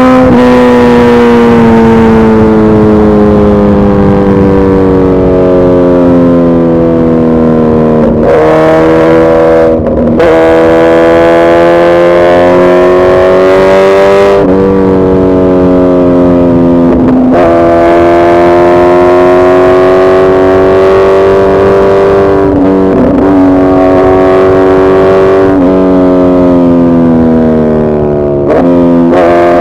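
Suzuki Hayabusa's inline-four engine running loud and steady at high revs. Its pitch drifts slowly and is broken by about seven quick jumps up or down.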